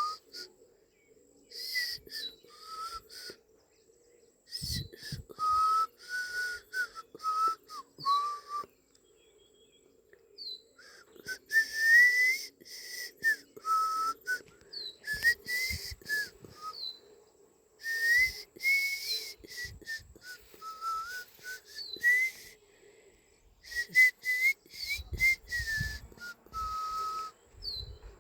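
A person whistling a tune: a phrase of short sliding notes, breathy, with pauses between phrases. There are a few low thumps of wind or handling on the microphone.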